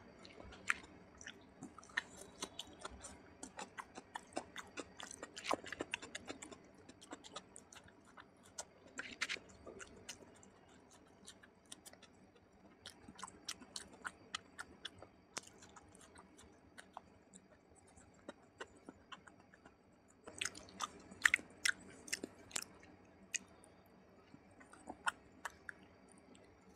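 Close-miked chewing and wet mouth smacks of a person eating curry-soaked rice and meat by hand: a steady run of sharp smacks and clicks, with louder clusters of bites several times, the loudest about three-quarters of the way through.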